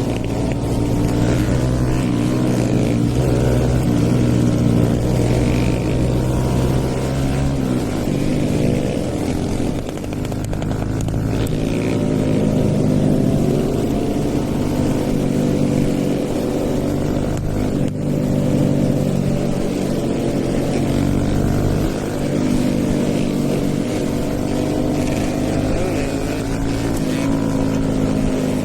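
Hero Eco 150 single-cylinder motorcycle engine, stage 2 tuned, running steadily under way. Its pitch rises and falls gently, and its note changes about seven and a half seconds in.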